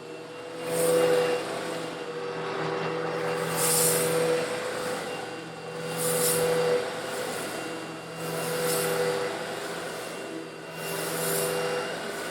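Eureka vacuum cleaner motor running steadily while sucking up small coarse stone granules, with a gritty rush of granules going up the intake about every two and a half seconds, five times.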